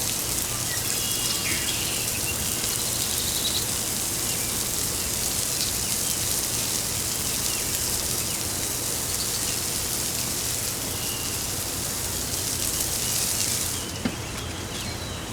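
Bacon sizzling on a Weber grill, a steady hiss that drops away sharply near the end.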